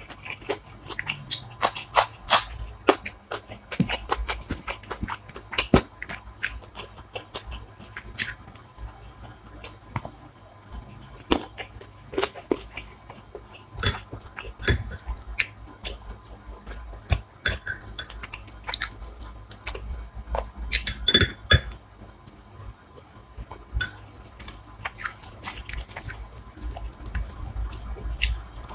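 Close-miked chewing and crunching of a hilsa biryani and fried hilsa meal: a steady run of irregular, sharp crunches and mouth clicks, with a louder cluster of crunches about two-thirds of the way through.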